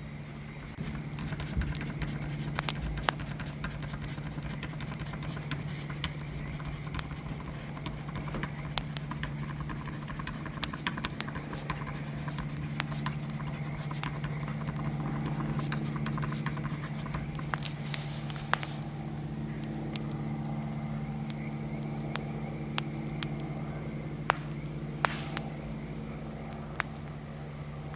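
Bonfire crackling, with irregular sharp pops over a steady low hum.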